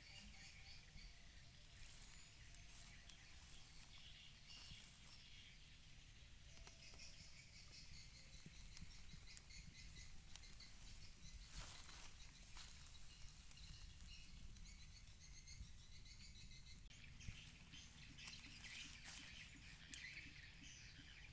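Near silence: faint outdoor ambience of small birds chirping over a low steady rumble, with a brief soft rustle about halfway through.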